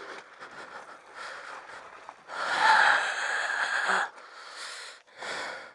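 A rider breathing hard into a helmet-mounted microphone after exertion: a series of breaths, the longest and loudest about two and a half seconds in, lasting close to two seconds.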